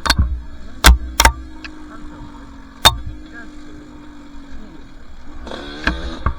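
Two-stroke dirt bike engine running at low, steady revs, sagging slightly in pitch, with five sharp knocks: two close together about a second in, one near three seconds, and one at the very end.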